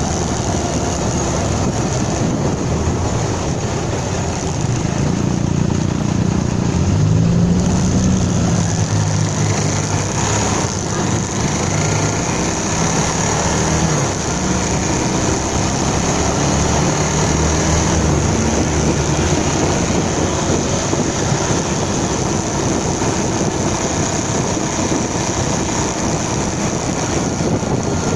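Motorcycle riding: steady wind and road noise, with an engine note that rises and falls between about four and eighteen seconds in.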